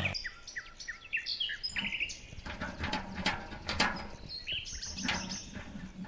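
Small birds chirping: many short, quick chirps, with a few sharp clicks in the middle.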